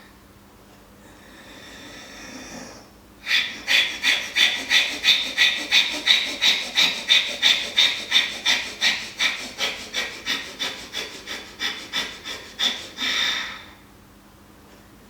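Person doing Himalayan Kapalabhati breathing with the raspy Ujjayi throat sound. An inhale comes first, then about thirty sharp, rapid exhales through the nose and throat, roughly three a second for about ten seconds, and the run ends on a slightly longer breath.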